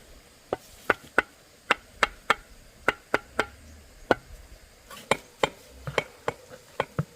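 Knife chopping on a cutting board: a run of sharp, unevenly spaced chops, about two to three a second.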